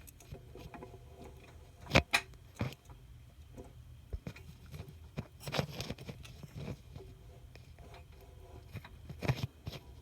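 Scattered knocks and rattles of metal parts being handled on an outboard motor, the loudest about two seconds in, over a faint low steady hum.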